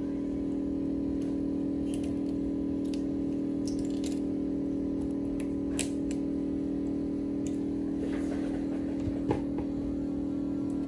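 Steady machine hum at several pitches, with scattered light clicks and taps of small tools on hard surfaces.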